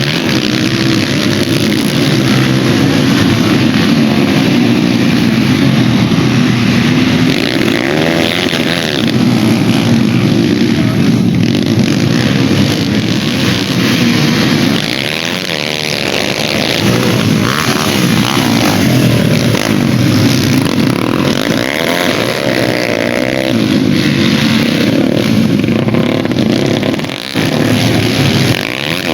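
Dirt bike engines racing, several overlapping engines revving up and down with their pitch rising and falling again and again.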